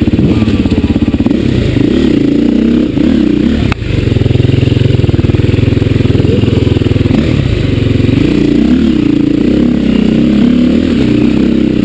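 Dirt bike engine revving up and down under load, its pitch rising and falling with the throttle as it works over rough ground. There is a brief knock with a momentary dip in the engine about four seconds in.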